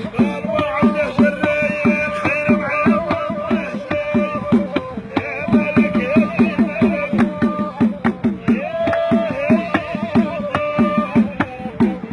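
Gasba reed flute playing a wavering, ornamented melody over a fast, steady hand-drum beat whose strokes drop in pitch.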